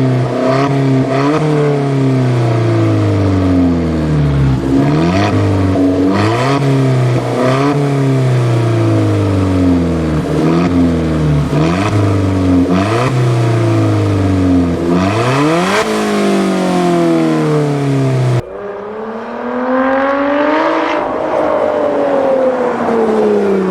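Sports car engine being revved in repeated sharp throttle blips, the revs falling away after each one. After an abrupt cut, a single longer rise and fall in engine pitch.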